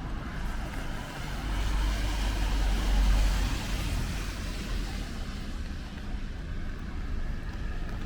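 A car driving past on a wet street, its tyre hiss and engine swelling to a peak about three seconds in, then fading.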